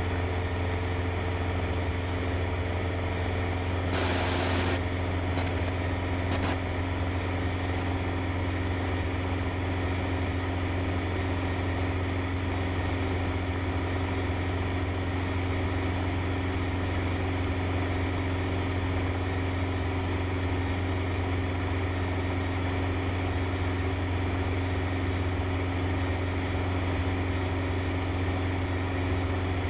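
Cessna 152's four-cylinder piston engine and propeller droning steadily in cruise, heard from inside the cabin. A brief hiss comes about four seconds in.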